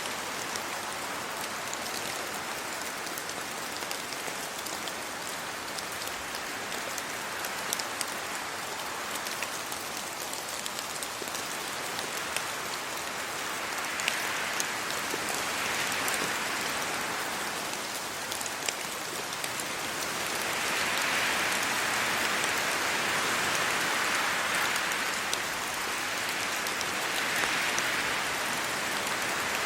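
Steady rain falling on trees, leaves and a road, with scattered sharp drop ticks; the rain swells louder a few times in the second half, as with gusts of wind through the leaves.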